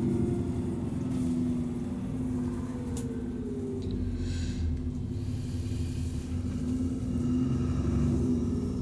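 Alexander Dennis Enviro 400 double-decker bus engine running under way, heard on board: a steady low rumble and hum, with a whine that falls in pitch about three seconds in and a short hiss a second later.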